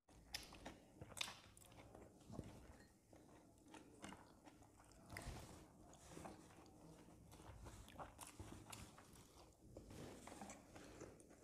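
Faint biting and chewing sounds of someone eating, a scatter of soft short clicks.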